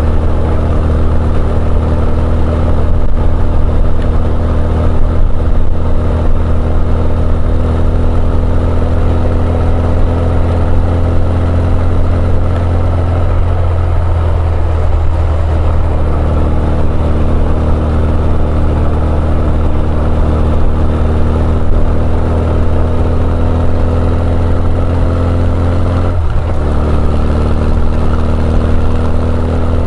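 Honda CB1100EX's air-cooled inline-four running through an R's Gear Wyvern Classic aftermarket exhaust, holding a steady engine speed while riding, with the pitch only drifting slightly.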